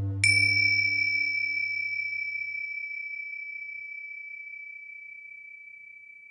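A metal singing bowl struck once, ringing with a high tone that fades slowly over several seconds, over the last of the background music dying away.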